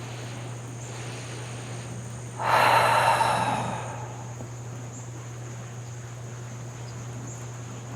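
A woman's long breathy exhale, like a sigh, about two and a half seconds in and lasting over a second. Behind it are a steady high chirring of crickets and a low hum.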